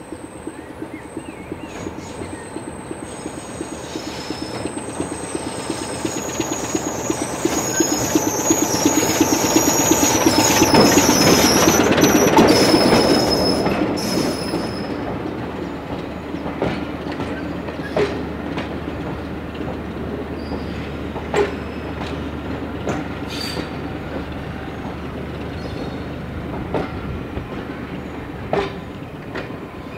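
A diesel-hauled passenger train approaches and passes close by, its locomotive's engine and wheels building to a peak about twelve seconds in, with high, wavering wheel squeal. The coaches then roll past with a steady rumble and a few sharp clicks as wheels cross rail joints.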